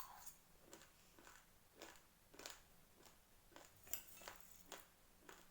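Raw rice grains being crunched between the teeth: a string of small, crisp cracks, roughly two a second at an uneven pace.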